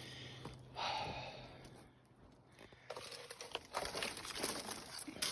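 Footsteps crunching and rustling through dry leaf litter over rock: a short burst about a second in, then a longer run of crunching steps from about three seconds on.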